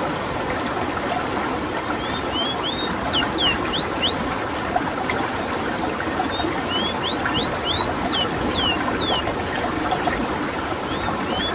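Ruddy-breasted seedeater (Sporophila minuta) singing: phrases of short, thin whistled notes, the first rising and the later ones sweeping down. There are two phrases, a third begins near the end, and all sit over a steady hiss-like background.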